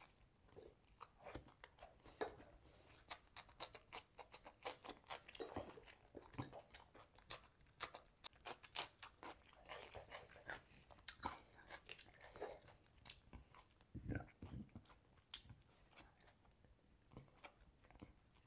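A person chewing and biting food close to the microphone: many small crunches and wet mouth clicks, coming thick and fast for most of the stretch and thinning out in the last few seconds.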